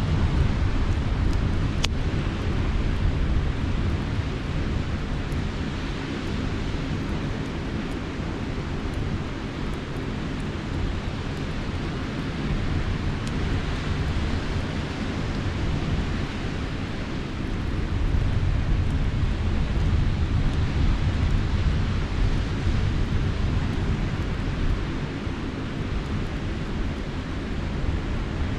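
Sea surf and wind making a steady low wash that swells and eases slowly, with a few faint pops from a campfire.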